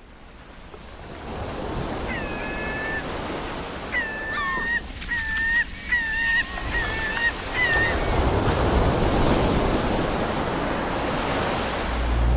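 Rushing water, a steady noisy wash that swells up over the first couple of seconds, with a bird calling: one call about two seconds in, then a run of about six short calls a second or so apart.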